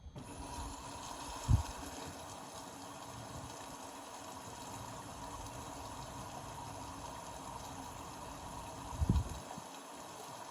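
Indesit Innex BWE 91496X washing machine with water rushing in steadily, as when it fills. There are two low thumps, one about one and a half seconds in and one near the end.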